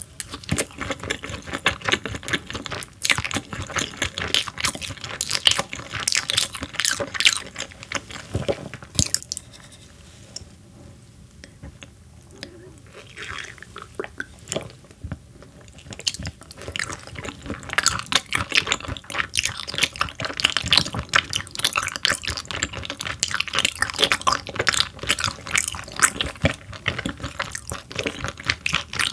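Close-miked chewing of battered, pan-fried croaker fish pancake (minyeo-jeon): dense wet, clicky mouth sounds. Around the middle it goes quieter for a few seconds while she sips from a small glass, then the chewing picks up again.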